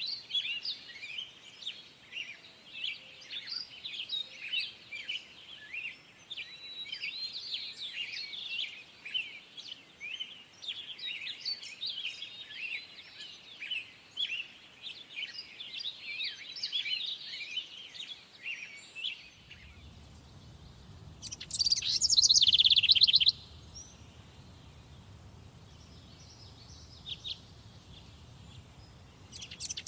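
Songbirds singing: for about two-thirds of the time many quick chirps and whistles overlap in a busy chorus. Then the sound changes abruptly to a faint low hum, broken twice by a loud, rapid trill from a single bird, with a softer call between them.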